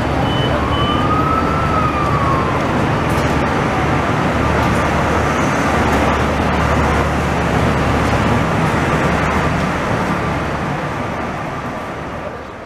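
Israel Railways double-deck passenger train and its locomotive rolling past a platform: a steady rumble of wheels on rail over a low drone. A brief whine rises and falls in the first two seconds, and the sound fades out near the end.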